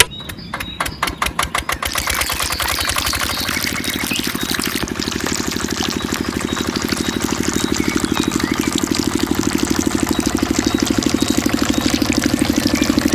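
Mini diesel engine of a water pump starting up: a few separate firing strokes that quicken over the first couple of seconds, then it settles into a steady, fast, even running beat.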